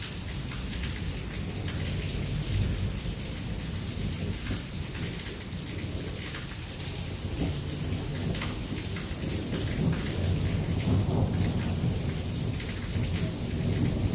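Heavy rain pouring and pattering on surfaces, with a low rolling rumble of thunder that swells in the second half.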